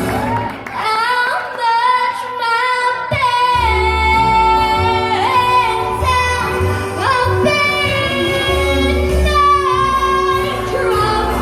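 A young girl singing long held, sliding notes over backing music. The bass of the accompaniment comes in strongly about three and a half seconds in.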